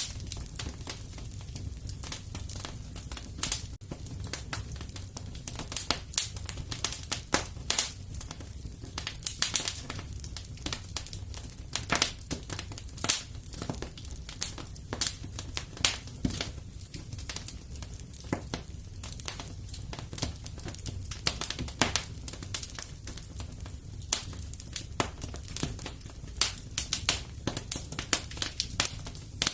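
Wood fire crackling and popping in a fireplace, with irregular sharp snaps over a steady low rumble of the burning.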